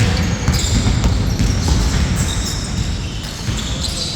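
Basketball being bounced on a court during a 4-on-4 game, with repeated short impacts and players' movement on the floor.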